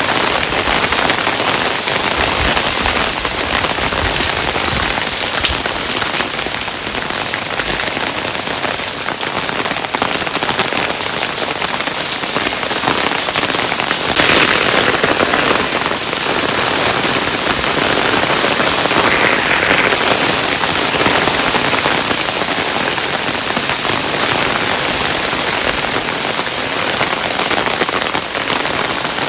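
Hail falling steadily: a dense, even patter of many small hailstones striking a surface, a little louder about halfway through.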